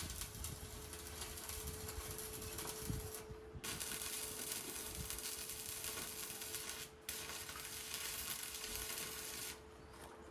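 Electric arc welding on steel, a steady crackling sizzle laid down in three long beads with short breaks between them, stopping near the end. A faint steady hum runs beneath.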